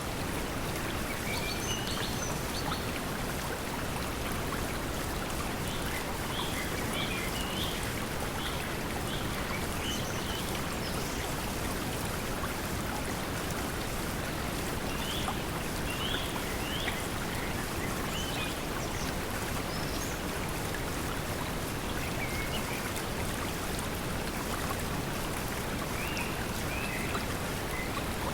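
Steady pink noise blended with flowing water, with short bird chirps scattered throughout.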